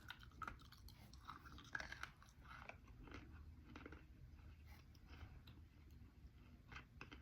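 Quiet, close-miked chewing of softened white slate thins, with a run of small, irregular crunches and crackles.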